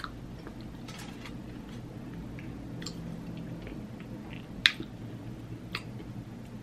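Close-up wet chewing and mouth smacks of a person eating, with scattered sharp clicks, the loudest about two-thirds of the way through.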